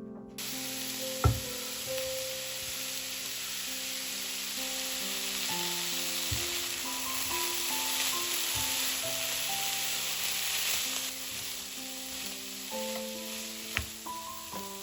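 Food sizzling in hot oil in a frying pan, the sizzle starting suddenly about half a second in as the food goes into the pan, with a sharp knock soon after and another near the end.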